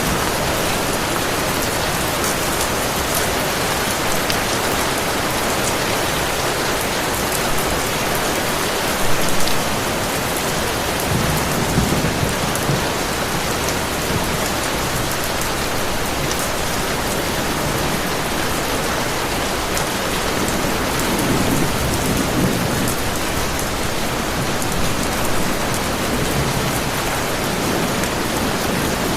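Heavy rain falling in a steady hiss, with low rumbles of thunder swelling up a few times.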